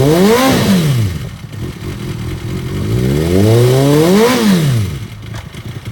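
2005 Kawasaki ZX-6R 636's inline-four engine revved twice through its Two Brothers exhaust: a quick blip right away, then a slower climb that peaks about four seconds in and drops back toward idle.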